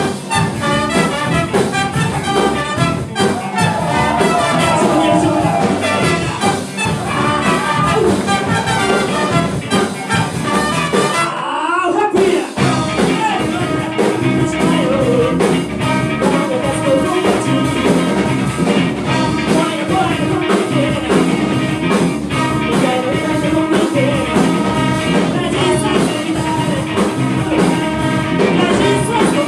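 Live band playing a funk number, with singing. About eleven seconds in the music briefly drops out with a falling sweep, then the band comes back in.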